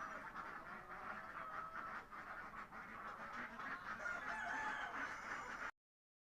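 Black Cayuga ducks quacking, overlapping calls; the sound cuts off suddenly near the end.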